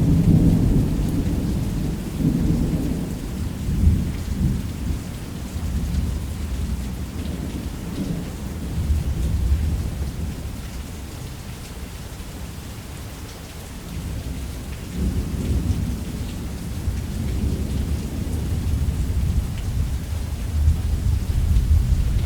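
Heavy rain falling steadily under long rolls of thunder. The low rumble is loud at first, fades away over the first dozen seconds, and swells up again in a second roll about fifteen seconds in.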